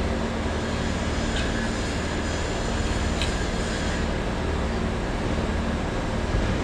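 Steady machinery drone with a low hum, and two faint clicks in the first few seconds.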